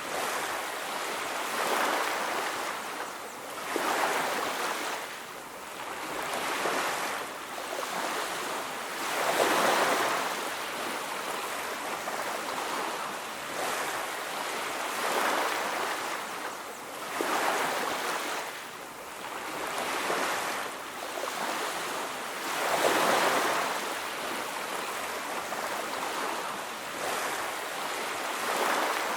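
Ocean waves breaking and washing on a beach, surging louder every few seconds and easing back between.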